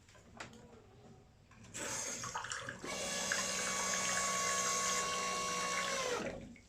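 Water streaming from the espresso machine's group head through the mesh shower screen and splashing into a cup. About three seconds in a steady whine joins it, then dips slightly in pitch and stops with the flow near the end.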